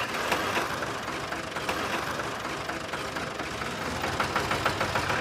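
Small electric motor and gearing of a homemade miniature chaff cutter running steadily, with rapid irregular clicking.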